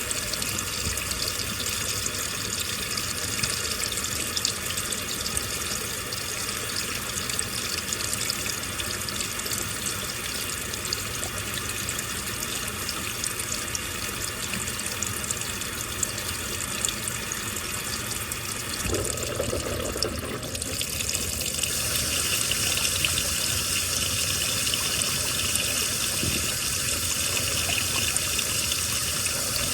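Water rushing and splashing inside a washing machine drum, a steady noise that shifts about two-thirds of the way through and runs a little louder afterwards.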